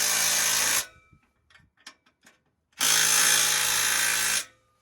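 Handheld power tool run in two bursts of a couple of seconds each, driving down the nut on an exhaust pipe clamp as the clamp crimps onto the pipe. A few light clicks fall between the bursts.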